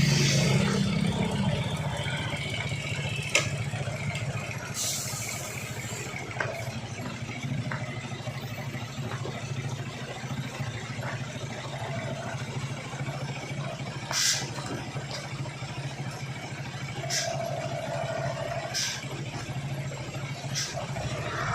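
A heavy truck's diesel engine running steadily at low revs, with a short hiss about five seconds in and a few scattered clanks or knocks.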